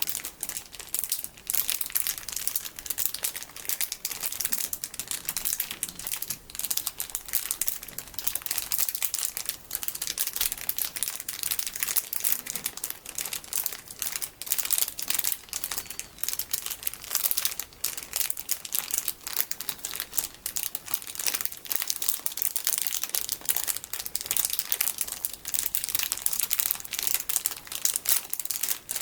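A plastic package of bigger colorful sticky beads being crinkled by hand: a dense, continuous crinkling and crackling of plastic, with no pauses.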